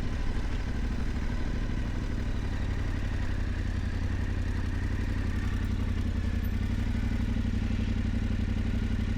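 Yamaha Ténéré 700's parallel-twin engine running steadily at low, even revs, with no revving up or down.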